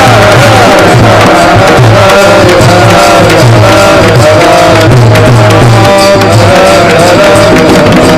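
Devotional kirtan music: tabla drumming in a steady rhythm under long held melodic notes.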